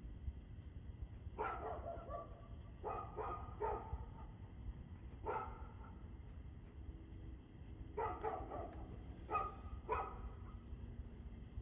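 A dog barking in irregular clusters of one to three barks, about nine barks in all, over a steady low background rumble.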